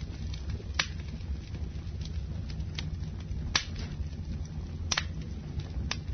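Campfire burning: a steady low rumble of flames with sharp wood crackles and pops at irregular intervals, the loudest three falling about a second in, past halfway and near the end.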